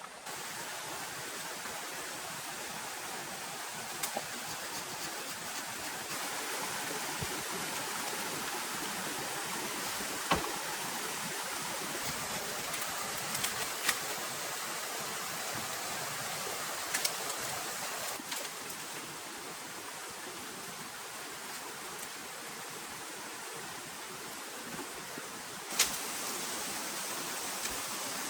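Heavy rain falling as a steady hiss, with a few sharp clicks or knocks scattered through it, the loudest about ten seconds in and near the end.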